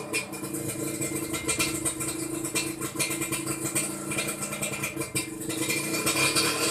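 Suzuki Satria's single-cylinder two-stroke engine idling through a stock exhaust that has been gutted of its baffles, with an even, rapid firing note that grows slightly louder near the end.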